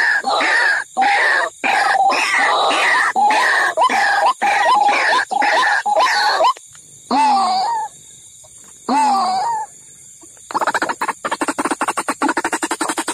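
White-breasted waterhen calls: a run of repeated calls about twice a second, then two single calls with quiet gaps between, then a rapid, fast-pulsed series starting about ten seconds in.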